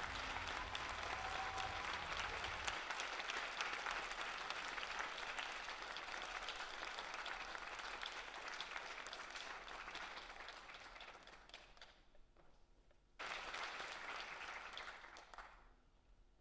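Audience applauding after the music ends, slowly thinning out. It drops out for about a second, comes back briefly, then cuts off abruptly near the end.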